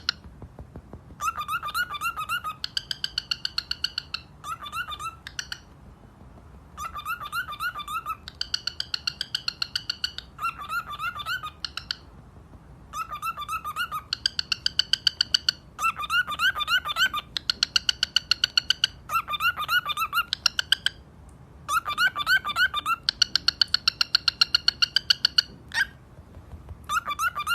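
Macaw calling in repeated bouts of rapid, pulsed high-pitched calls, each bout lasting a second or two with short pauses between them.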